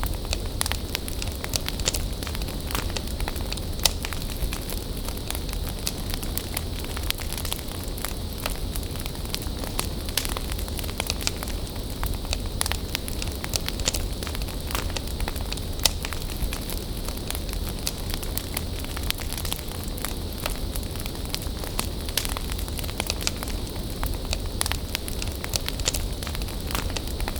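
Wood bonfire burning, crackling with frequent sharp pops and snaps over a steady low rumble.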